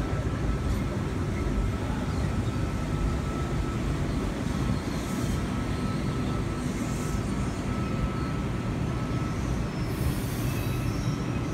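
A V-set intercity double-deck electric train rolling slowly along the platform: a steady low rumble with a thin steady whine over it. Short hissing bursts come about five seconds in and again near the end, as the train draws to a stop.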